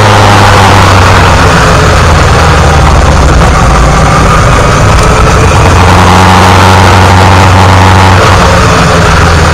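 Yamaha XJR1300's air-cooled inline-four engine running steadily while riding, its note shifting slightly about six seconds in, under heavy wind and road noise on the onboard microphone.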